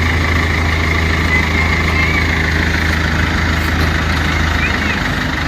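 Large engine running steadily at idle with a low, even hum.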